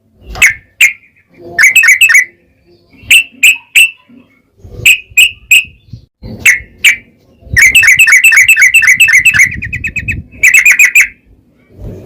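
Yellow-vented bulbul (trucukan) singing loud, bubbly phrases of two or three notes about every second and a half. Near the middle it breaks into a long, fast rattling trill, the 'ropel panjang', and a shorter run follows soon after.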